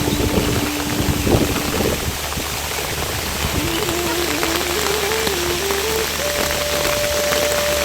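Steady rain falling. A thin single tone runs over it, stepping up and down in pitch through the middle and then holding one higher note to the end.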